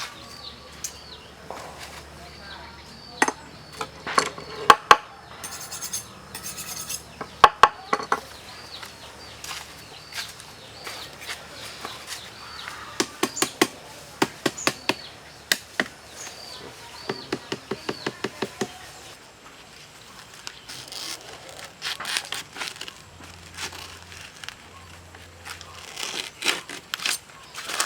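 Handling sounds of outdoor food preparation: irregular knocks and scrapes on wood, with runs of quick, even taps. Insects chirp steadily underneath.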